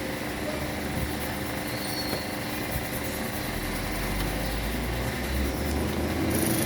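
A vehicle engine running in the background, with a low rumble that grows louder in the second half.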